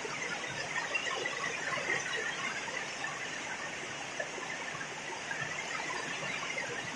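Heavy rain falling steadily, a dense patter of many small drops.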